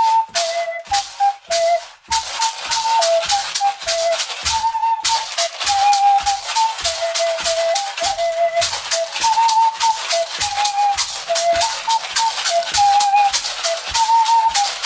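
A flute plays a simple, slow melody of a few held notes while a hand rattle is shaken in a steady beat alongside it. The rattle becomes continuous about two seconds in.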